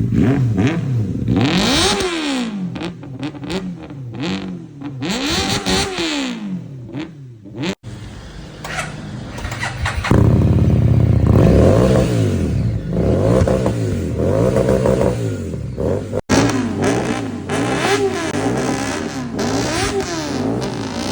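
Motorcycle engines revving through loud exhausts, the revs rising and falling again and again, in three clips that cut abruptly about 8 and 16 seconds in.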